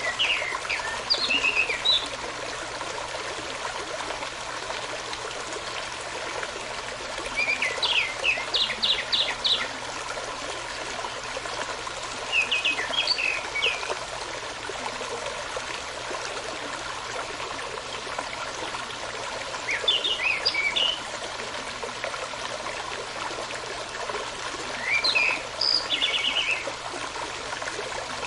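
Small brook trickling steadily, with a songbird singing short quick phrases of whistled notes five times, several seconds apart.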